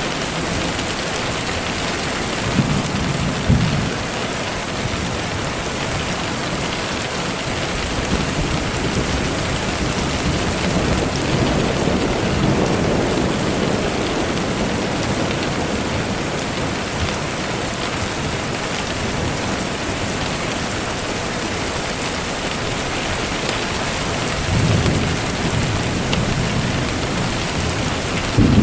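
Steady rain falling, with low rolls of thunder a few times: about three seconds in, around the middle, and near the end.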